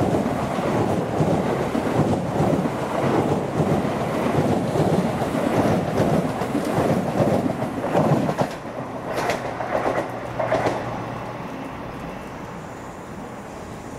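A train passing close by at speed, a loud rumble of wheels on rail that drops away about eight and a half seconds in. A few sharp wheel clacks follow as the train clears, then a fading hum.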